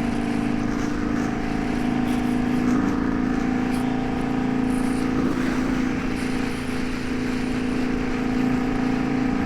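Indian Scout Bobber's V-twin engine running steadily at highway cruising speed, under a wash of wind and road noise.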